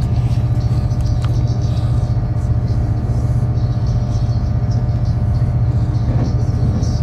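Steady running noise heard inside a moving passenger train: a constant low rumble from the wheels and running gear on the track, with a steady hum above it.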